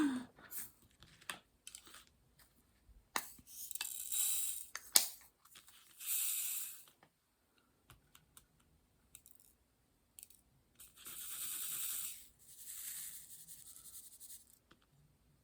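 Small plastic bags of diamond-painting drills being handled: several rustling bursts of a second or two, with scattered small clicks and taps in between.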